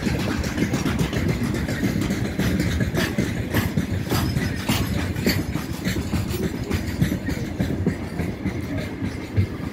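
Broad-gauge freight train of open-top wagons rolling past over a level crossing: a steady rumble broken by irregular knocks and clatter of the wheels.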